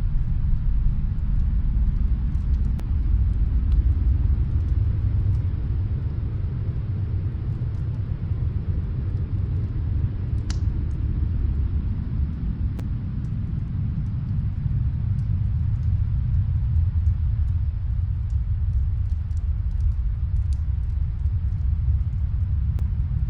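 Steady low rumble of snowstorm wind, with faint scattered crackles from a fireplace.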